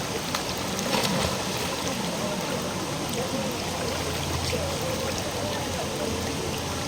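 Steady rush of a shallow forest river running over rocks, with faint distant voices underneath.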